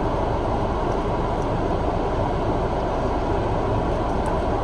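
Steady low rumble and hiss inside a parked car's cabin, unchanging in level, with a few faint small clicks near the end.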